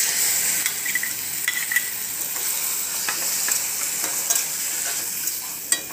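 Chopped tomatoes sizzling in hot oil in a steel kadai, the sizzle starting suddenly as they go in, then running on steadily. A spatula stirs them with scattered light scrapes and taps against the pan.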